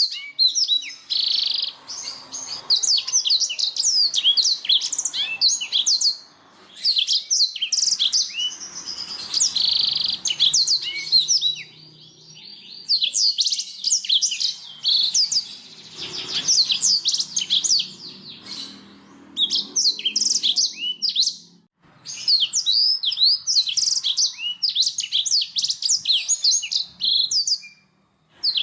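Canary singing long phrases of rapid high chirps and trills, broken by several short pauses.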